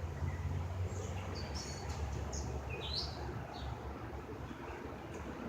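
Wild birds chirping, several short, separate chirps over a steady low rumble.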